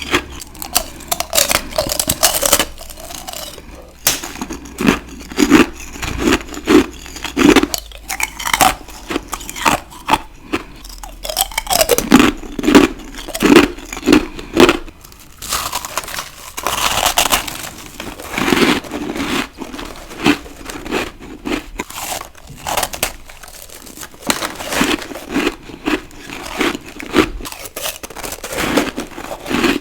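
Close-miked biting and chewing of ice: crisp crunches and crumbling one after another, with a steady chewing rhythm underneath.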